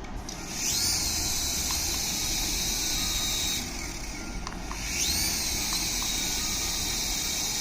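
Small electric motor of a radio-controlled toy whining up to speed, running steadily for about three seconds, dropping off, then spinning up again and running on.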